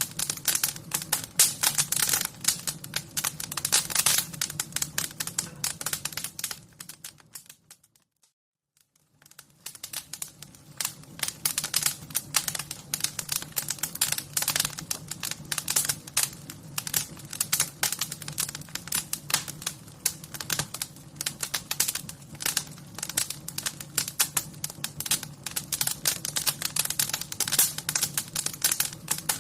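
Wood fire crackling, with dense, irregular pops and snaps over a low steady rumble. It fades almost to silence for about two seconds, about eight seconds in, then comes back.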